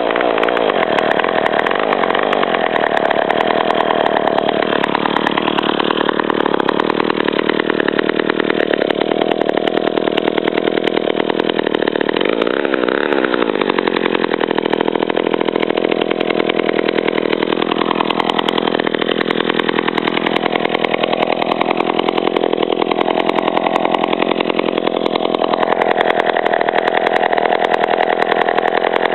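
A 1957 McCulloch 35 gear-reduction chainsaw's two-stroke engine running at a steady speed just after starting, its pitch wavering briefly about halfway through.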